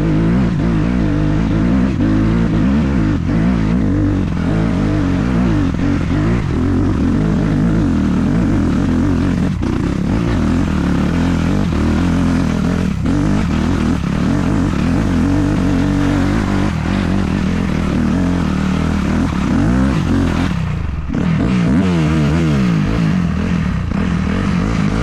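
Honda CRF250 dirt bike's four-stroke single-cylinder engine running hard, revs repeatedly rising and falling under throttle. About three-quarters of the way through it briefly drops off, then climbs again.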